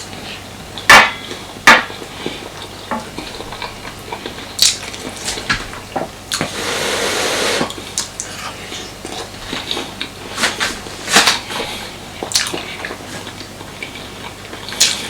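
Cutlery clinking and scraping against a plate while eating, with scattered sharp clicks and one longer, noisier scrape about six to seven seconds in.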